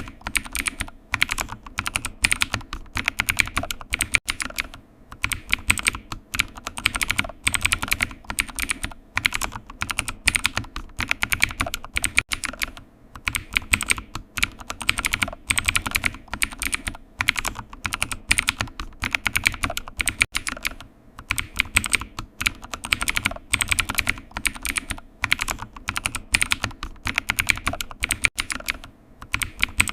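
Typing on a computer keyboard: rapid runs of key clicks, broken by short pauses every few seconds.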